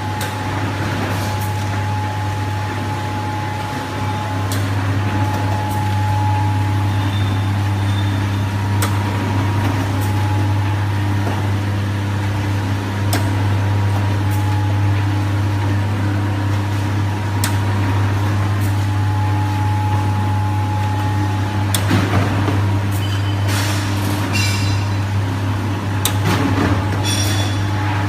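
Cup water filling machine running: a steady low motor hum with a constant higher tone, and scattered clicks and clacks of the mechanism that come thicker near the end.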